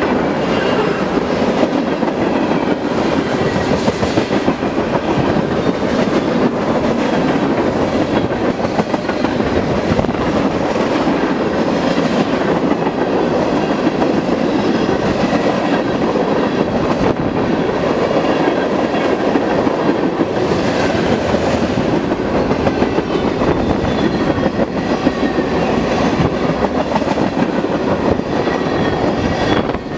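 A train rolling past steadily, its cars' wheels clattering over the rails.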